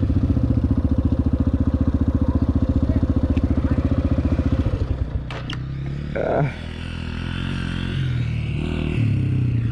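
Dirt bike's single-cylinder four-stroke engine idling close by with a rapid, even pulse. About five seconds in it drops to a quieter, steadier run.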